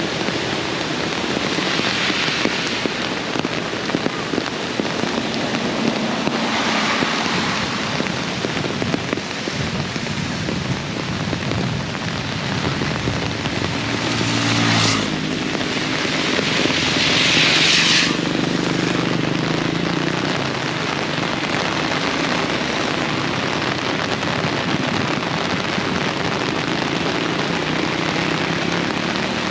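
Heavy rain falling steadily. Partway through, a motor vehicle passes with a low engine hum, and a louder surge of spray hiss cuts off suddenly.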